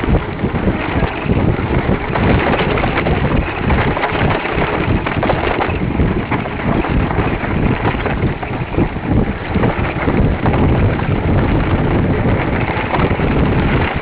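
Wind buffeting the microphone during a fast mountain-bike descent, with continual small rattles and knocks from the bike over rough ground.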